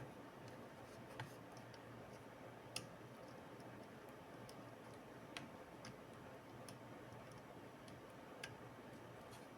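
A few light, sharp clicks at irregular intervals over a faint steady hiss: small tools and plastic laptop parts being handled.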